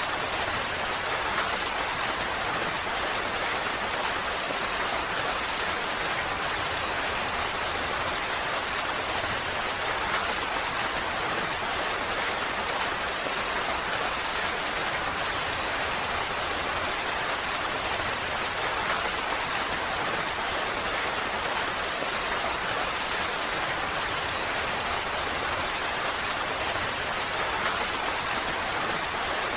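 Steady rain falling, an even dense hiss of drops with faint scattered ticks and no change in intensity.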